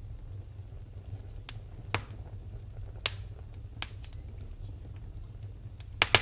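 Wood fire in a fireplace crackling: scattered sharp pops, the loudest two in quick succession near the end, over a low steady rumble of the flames.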